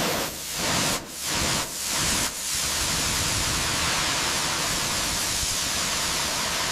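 Steady hiss of a high-pressure spray, cut off briefly four times in the first couple of seconds, then running unbroken.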